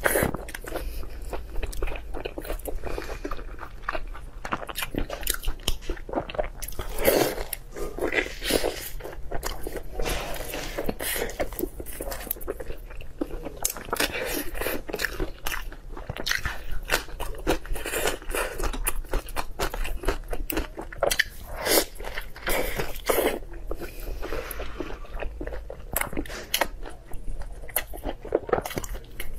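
Close-miked chewing and biting of red-braised pork belly (hongshao rou): wet mouth sounds with many short, irregular clicks throughout.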